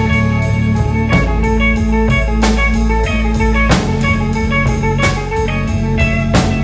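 Live instrumental rock jam in A major: electric guitars and bass playing over a drum kit keeping a steady beat.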